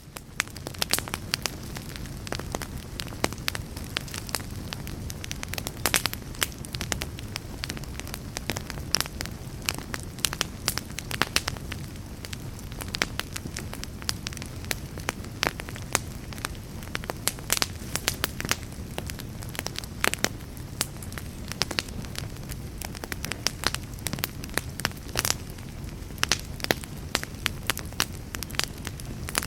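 Logs burning in a fireplace, crackling steadily: frequent sharp snaps and pops, several a second, over a low steady rumble of the flames.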